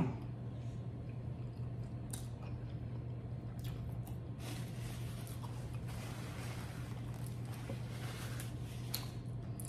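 Faint close-up chewing and soft wet mouth clicks of someone eating chewy Korean rice cakes, over a steady low hum.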